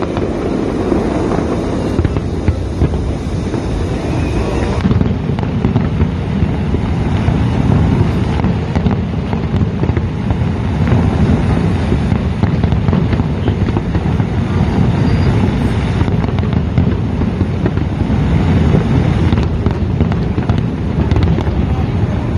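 Fireworks display: many bangs and crackles overlapping into a steady rumbling stream, with no single blast standing out.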